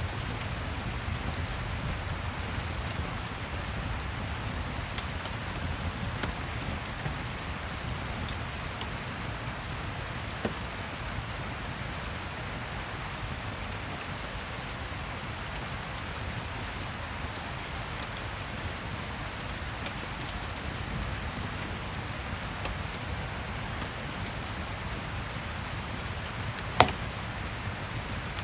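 Steady rain with a crackling fireplace: an even hiss of rainfall with a few small scattered pops, and one sharp crack near the end.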